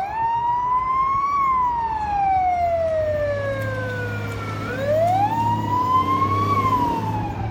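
Fire engine siren wailing: the pitch rises quickly and then falls slowly, twice, with a low engine hum underneath from about three seconds in.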